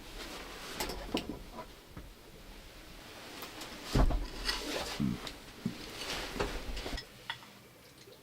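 Objects being handled in a small wooden space: scattered light knocks, clicks and rubbing, with a louder thump about four seconds in.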